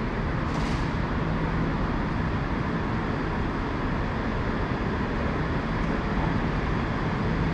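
ScotRail class 385 electric multiple unit at the platform: a steady rumble with a low hum running through it.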